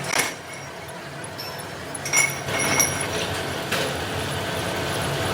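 Metal parts clinking twice, each strike ringing briefly, over steady factory machinery noise that grows louder near the end.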